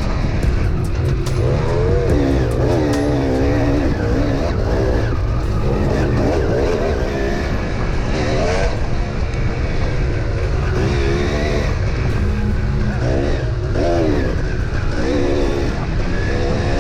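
Dirt bike engine revving up and down repeatedly as the bike is ridden hard, its pitch climbing and dropping every second or two.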